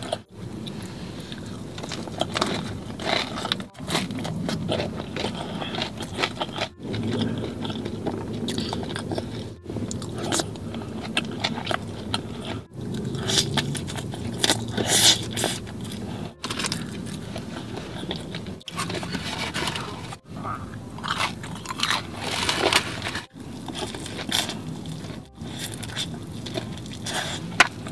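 Close-miked biting, crunching and chewing of crispy breaded fried chicken, with wet mouth sounds. It comes in short stretches separated by brief dropouts every few seconds.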